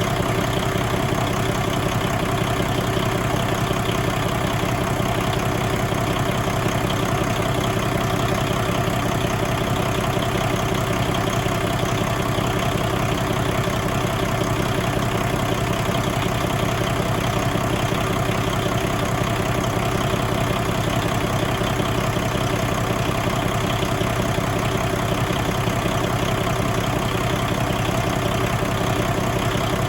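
A 2014 Paccar MX13 inline-six diesel engine idling steadily.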